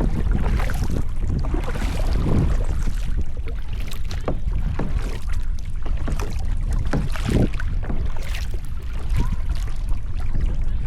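Kayak paddle strokes dipping and splashing in the water about once a second, over steady wind buffeting the microphone.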